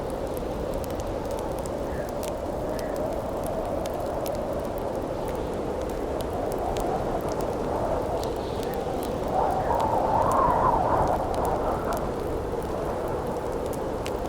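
Howling wind over a crackling campfire: a steady wind noise that swells into a louder gust about two-thirds of the way through, with scattered small pops and crackles from the burning wood.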